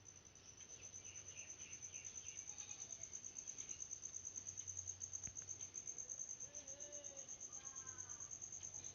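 A rapid, even train of high-pitched chirps, growing louder over the first few seconds and then stopping suddenly near the end. Faint wavering tones sit beneath it in the last few seconds.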